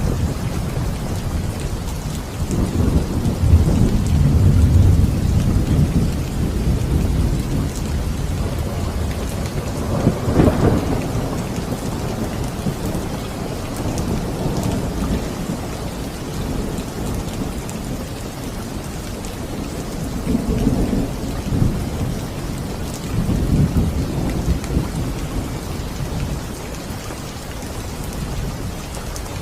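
Steady rain with rolling thunder: several low rumbles swell and fade over the rain, the strongest and longest a few seconds in, with further rolls about ten seconds in and twice more in the last third.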